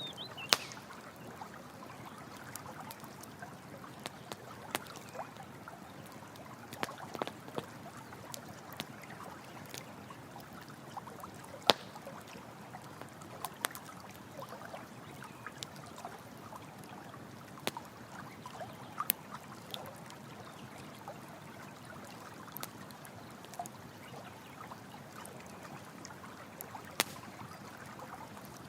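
Running water trickling steadily, with a campfire crackling and giving off occasional sharp pops, a few of them standing out loudly.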